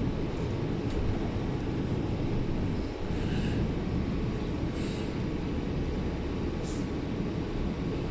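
Shuttle bus heard from inside while it drives: a steady low engine and road rumble, with a few brief higher-pitched squeaks or hisses about three, five and seven seconds in.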